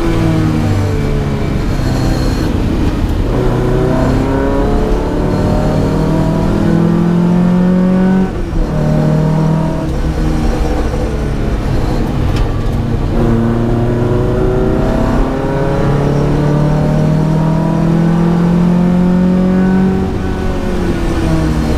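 Datsun P610 rally car's engine under hard acceleration, its pitch climbing through the revs, dropping at gear changes about 8 and 13 seconds in, then climbing again before easing off near the end.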